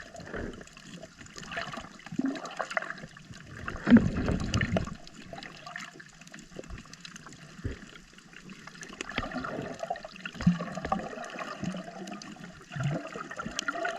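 Shallow seawater swirling and gurgling around an underwater camera, in irregular surges with a strong low surge about four seconds in.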